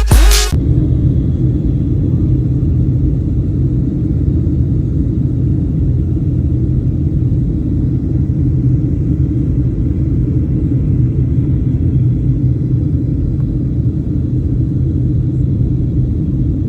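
Steady low rumble of road and engine noise inside a moving car's cabin. Electronic music cuts off about half a second in.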